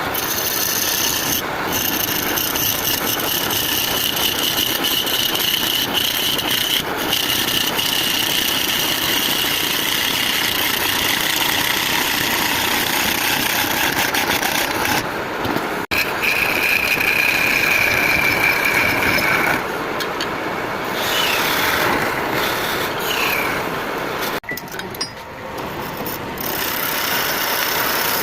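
An electric power tool running against wood, grinding or sanding it: a steady rasping noise with a high motor whine over it, broken off abruptly several times.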